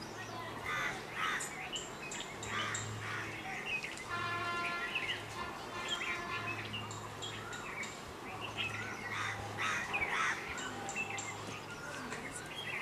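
Many birds calling and chirping in short notes, with a held, steady tone lasting about two seconds from about four seconds in.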